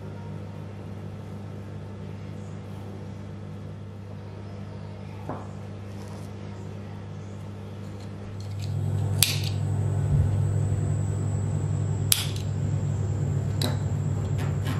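A steady low electrical hum that gets louder about eight and a half seconds in, joined then by a faint high whine, with a few sharp clicks.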